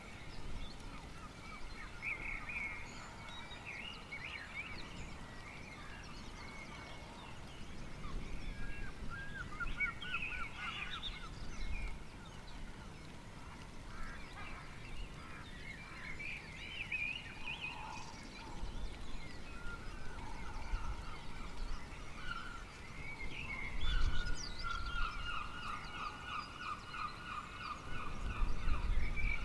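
Birds calling in the early-morning storm air, repeated harsh calls made of quick pulsed notes, the loudest near the end, with faint low rumbles now and then underneath.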